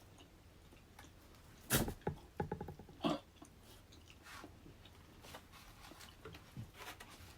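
Close mouth sounds of a person eating sapin-sapin, a sticky layered rice cake: wet smacks and chewing. A cluster of louder smacks comes about two to three seconds in, and the chewing then goes on faintly.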